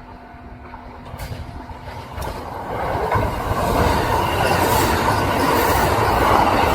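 Kintetsu electric train approaching and passing close by. It starts as a low rumble, swells over about the first four seconds, then holds as a loud steady noise of wheels running on the rails.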